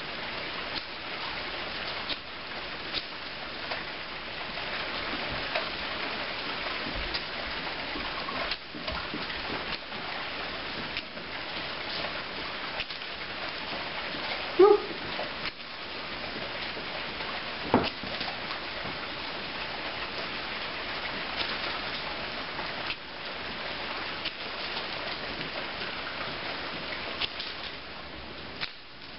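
Steady pouring rain, with repeated short scraping strikes of a ferrocerium fire steel. A single short, pitched yelp about halfway through, and a sharp click a few seconds after it.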